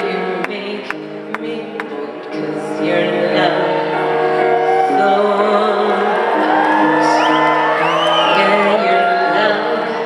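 Live concert music in a large hall: slow, held chords, with audience whoops and whistles rising and falling over them from about three seconds in.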